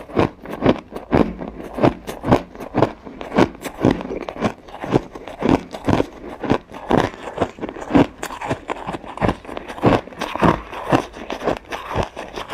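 Ice being bitten and crunched: a quick, continuous run of crisp crunching bites, two or three a second.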